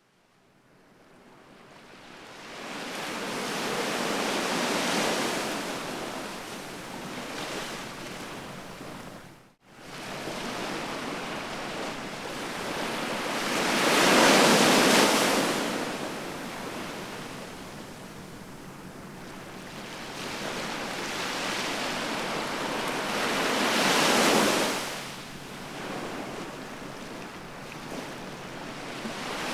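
Sea waves breaking on the shore, swelling and ebbing in slow surges about ten seconds apart, with the two largest breaks about a third and four-fifths of the way through. The sound fades in at the start and cuts out for an instant just before ten seconds in.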